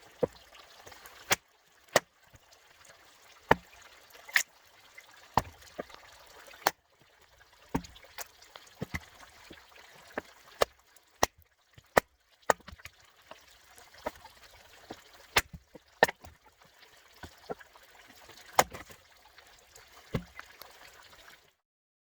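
Splitting maul chopping pine firewood: a run of sharp, irregularly spaced chops and knocks, roughly one a second, some much louder than others.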